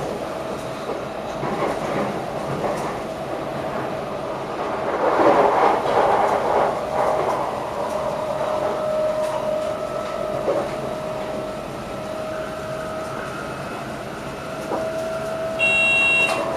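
Electric passenger train running along the track, heard inside the driver's cab: a steady rolling rumble with a constant whine. The rumble grows louder about five seconds in, and a short electronic beep sounds near the end.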